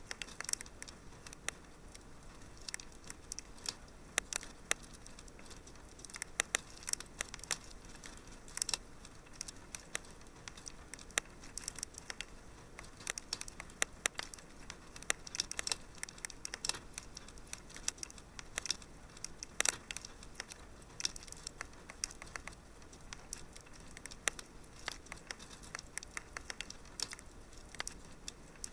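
Wood fire crackling in a fireplace: irregular sharp pops and snaps of varying loudness over a soft low hiss.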